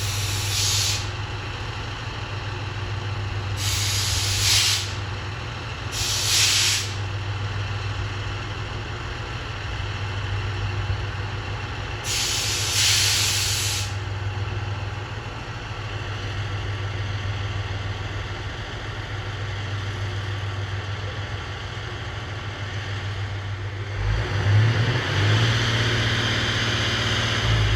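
Diesel railcar engine idling with a steady low hum, broken by several short hisses of compressed air being released, as from the air brakes. About 24 seconds in, the engine note rises and a louder rush of noise comes in.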